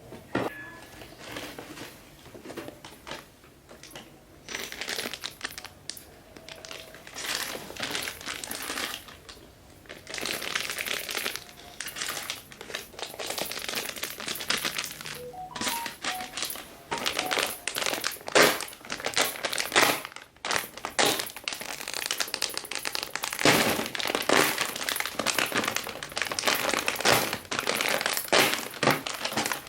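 Plastic snack packets crinkling and rustling as they are handled, in irregular bursts that grow louder and busier in the second half.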